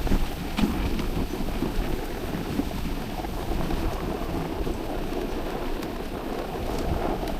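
Steady rushing, rumbling noise of wind buffeting the microphone, with no engine tone in it.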